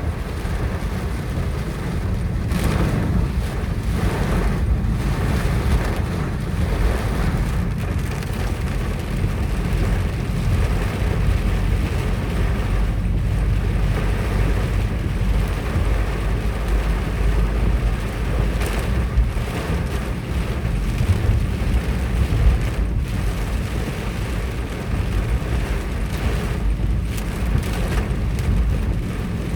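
Strong wind in a hailstorm buffeting the microphone with a heavy low rumble, over a steady hiss of rain and hail, with a few brief louder gusts along the way.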